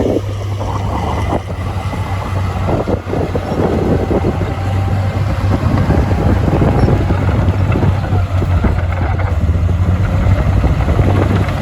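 Heavy diesel earthmoving machinery running under work, a steady deep engine drone with rough noise over it.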